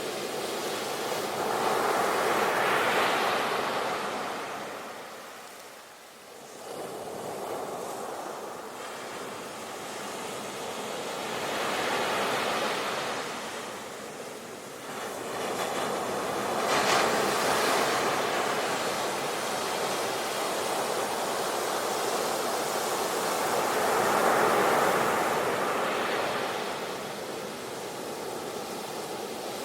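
Ocean surf: waves breaking and washing in as a wide hiss that swells and fades about four times. Between the first two waves it nearly dies away, and one wave ends in a brief, sharper hiss.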